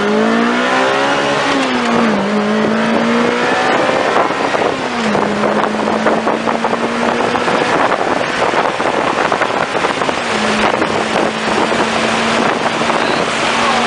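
Lotus Elise/Exige four-cylinder engine heard from inside the car, revving up under acceleration and dropping in pitch at an upshift about two seconds in, with a second shift near five seconds. It then holds a steady drone at cruising speed under heavy wind and road noise.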